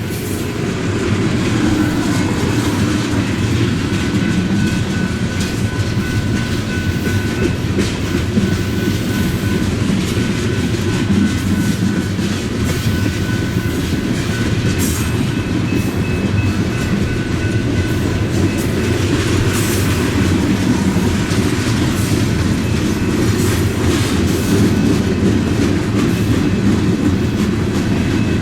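BNSF freight train rolling slowly past: a steady low rumble with wheels clicking over rail joints and a faint, steady high-pitched wheel squeal.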